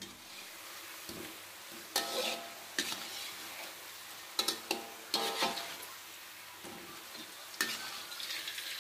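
Sweet potato balls deep-frying in hot oil in a metal wok with a steady sizzle, while a metal spatula knocks and scrapes against the wok several times as the balls are turned.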